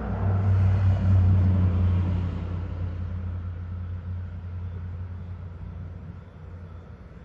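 Deep rolling rumble of thunder, loudest in the first couple of seconds and then slowly fading away.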